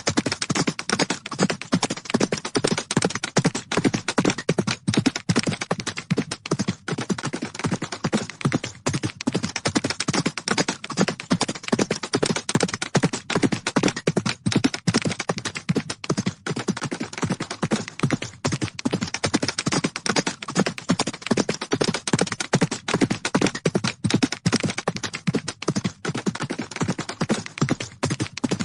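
Horses' hooves galloping: a fast, unbroken run of hoof beats.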